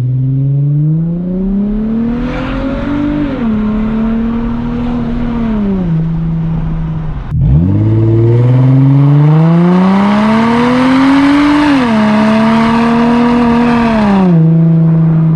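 2004 Infiniti G35 coupe's 3.5-litre V6 with a muffler delete, accelerating hard twice. In each pull the exhaust note climbs steadily, drops sharply at an upshift, holds, then falls away as the throttle eases.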